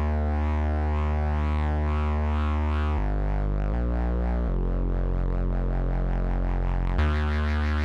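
Behringer Neutron analog synthesizer playing a sustained low bass drone, its brightness wobbling up and down a few times a second. The note steps down to other pitches about three seconds in and returns to the first note near the end.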